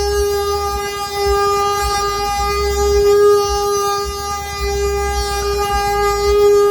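Wooden axle of a Brazilian ox cart (carro de boi) singing as the cart rolls: one steady, loud droning tone with many overtones that swells and eases slightly, over a low rumble that comes and goes.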